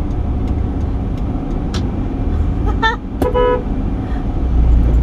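Steady road and engine rumble heard inside a moving car, with a brief vehicle horn toot about three seconds in.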